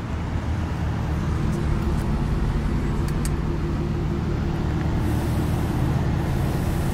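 Aston Martin Virage Volante's V12 idling steadily, heard from inside the cabin, with a couple of faint clicks.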